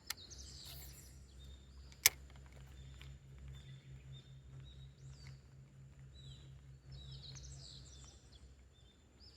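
Small birds chirping repeatedly over a steady low hum. A single sharp click about two seconds in is the loudest sound, and a fainter click comes right at the start.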